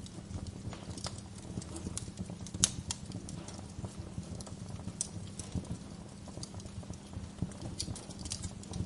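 Wood fire crackling in a fireplace: irregular sharp pops and snaps over a low steady rumble of the flames. One pop about two and a half seconds in is much louder than the rest.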